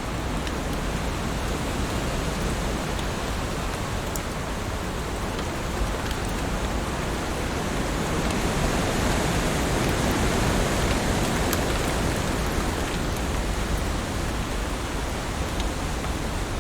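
Heavy rain falling steadily, an even hiss that swells slightly in the middle, with a few sharp drop ticks here and there.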